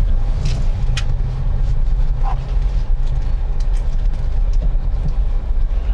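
Ford EcoSport SUV driving on a road: a steady low rumble of engine and tyre noise, with a few light clicks in the first second.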